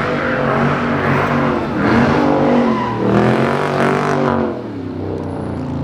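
Performance car engine revving hard several times, its pitch climbing and falling with each rev, then easing off near the end.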